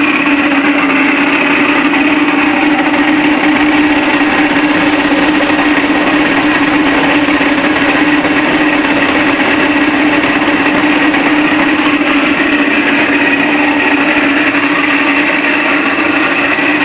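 Ceiling-fan downrod pipe-cutting machine running steadily: a loud, even motor hum with a higher whine above it.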